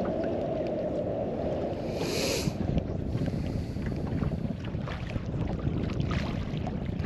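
Wind buffeting an action-camera microphone on the water, a steady low rumble with scattered small clicks and a brief hiss about two seconds in.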